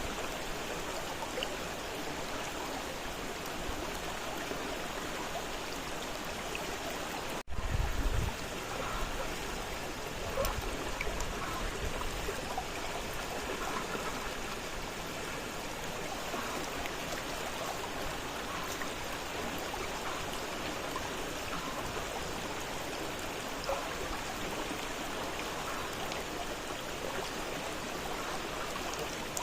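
Fast-flowing river water rushing steadily. About a third of the way in there is a momentary dropout, followed by about a second of low rumble.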